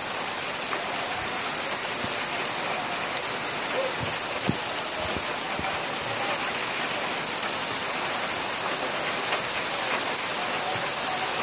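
Heavy downpour: a steady hiss of rain falling on a gravel road and grass, with a few sharper taps of close drops around the middle.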